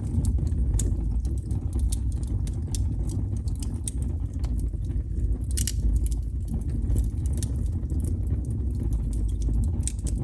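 Wood fire crackling: many quick, irregular pops and snaps of burning wood over a steady low rumble, with one louder pop about halfway through.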